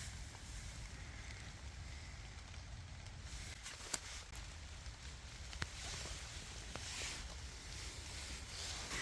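Quiet ambience of a wet forest walk: a low, steady rumble with a faint hiss, broken by two sharp clicks about four and five and a half seconds in.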